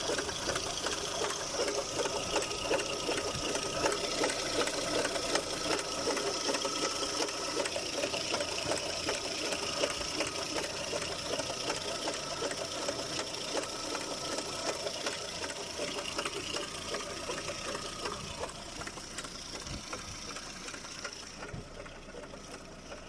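Engine running with a fast, even mechanical clatter, an unexplained noise in an engine whose timing belt had 20 teeth stripped after only 10,000 km. The clatter fades away near the end.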